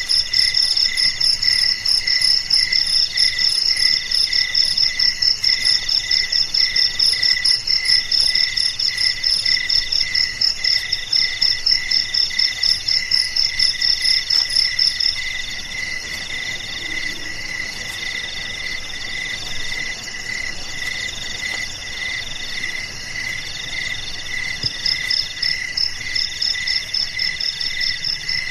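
Chorus of crickets chirping, several callers overlapping in different rhythms and pitches: a fast high pulsing trill, a slower chirp repeating under it, and longer buzzing phrases. The loudest high trill stops about halfway through and comes back near the end.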